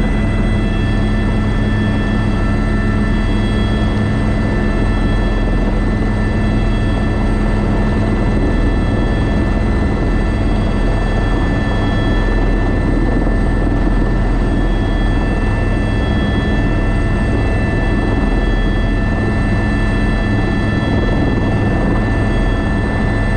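Airbus AS350 B3 (H125) helicopter running steadily in flight: a constant rotor drone with a high, steady turbine whine from its single turboshaft engine.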